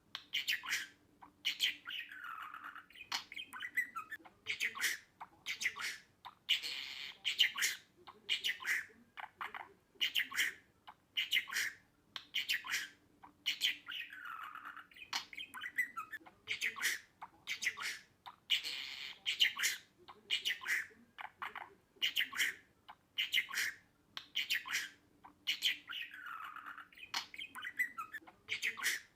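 Budgerigar chattering in quick short chirps and squawky calls. The same sequence repeats about every twelve seconds.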